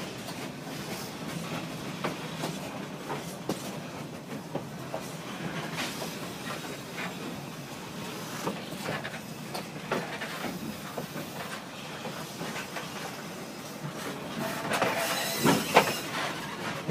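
Passenger train running over a steel trestle viaduct, heard from aboard: a steady rumble of wheels on rail with an irregular run of clicks and clacks. Near the end comes a louder stretch of rattling with a hiss.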